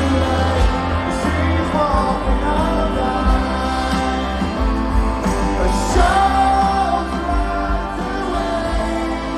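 Live rock band playing loudly through a concert PA, with a melody that bends in pitch over drums, bass and guitars, and some singing.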